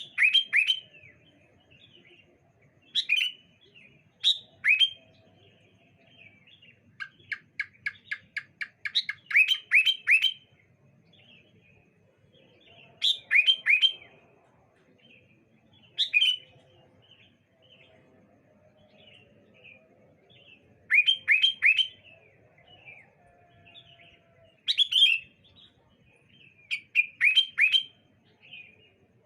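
Sooty-headed bulbuls calling back and forth: short bursts of quick, downward-slurred whistled notes every few seconds. About seven seconds in there is one rapid run of about ten clipped notes.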